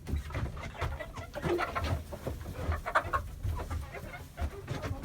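Flock of hens clucking and calling inside a chicken house, many short overlapping calls.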